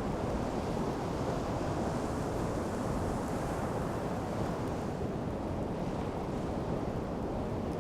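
Sea surf washing steadily onto the shore, an even rushing noise with wind.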